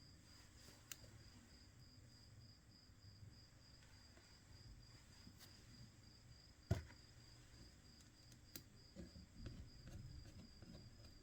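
Near silence with a faint, steady, high-pitched pulsing trill, like a cricket, running throughout. A single sharp click about two-thirds of the way through, with a few fainter ticks and light handling noises around it.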